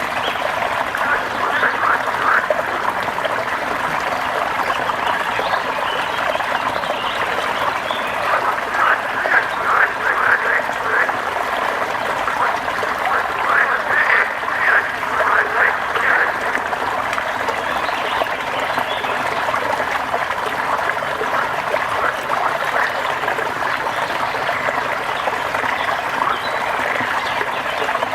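A chorus of frogs croaking in bursts of rapid, repeated calls over a steady wash of rain.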